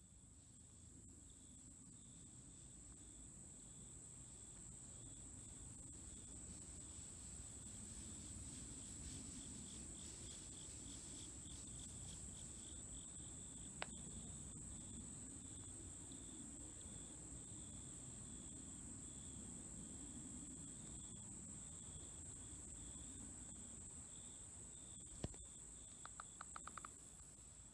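Insects trilling steadily at a high pitch, with a second, pulsing insect chorus a little lower, over a faint low rumble. Two sharp clicks, and near the end a short run of rapid notes.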